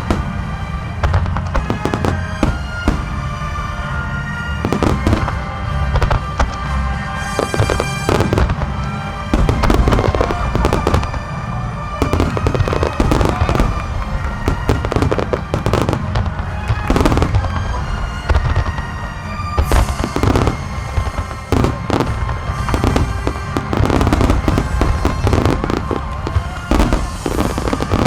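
Large aerial fireworks shells bursting in rapid, overlapping succession, with booms and crackling, over accompanying music that plays throughout.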